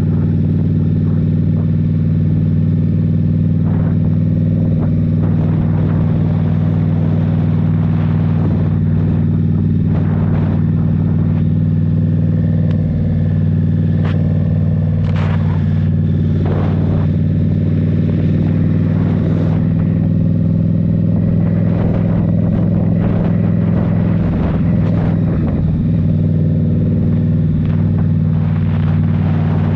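Indian Scout Rogue's 69 cubic-inch V-twin engine, breathing through a Rinehart slip-on exhaust, running at a steady engine speed with an even, unchanging note, with a few short ticks.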